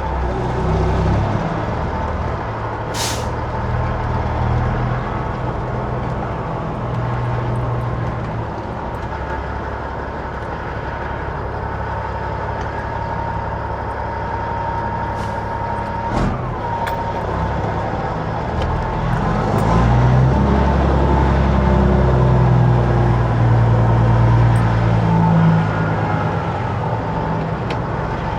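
Peterbilt 379 semi truck's diesel engine running at low speed while maneuvering in reverse, growing louder about two-thirds of the way through. A short hiss of air brakes comes about three seconds in.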